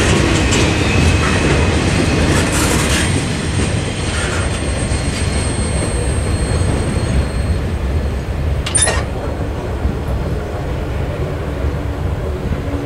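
The tail end of a mixed freight train rolling through a level crossing and rumbling away. Its wheels click over the rail joints in the first few seconds, and a high, thin wheel squeal fades out about seven seconds in. A single sharp clank comes about nine seconds in.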